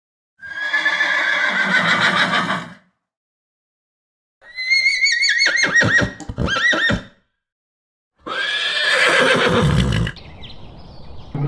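Horse neighing three times, with silent gaps between the calls; the middle call is a high whinny with a quavering pitch that drops away at the end.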